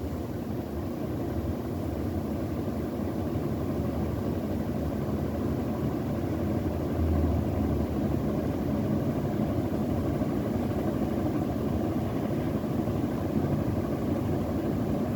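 Monet ceiling fan with four blades running steadily: an even, low hum of the motor and the rush of air from the blades, building slightly in the first couple of seconds.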